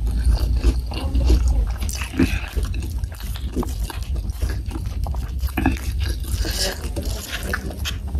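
Close-miked wet chewing and lip-smacking of boneless chicken feet in sweet soy sauce with rice: irregular moist clicks and squelches over a steady low hum.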